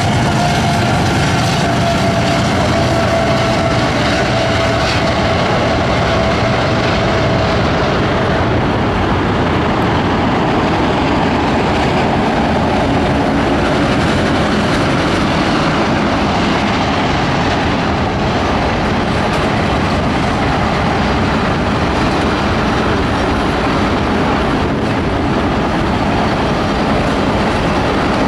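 CSX freight train rolling past: a steady rumble and clatter of wheels on rail as the locomotive and then autorack cars go by. A steady whine sounds over the first several seconds, slowly falling in pitch before it fades.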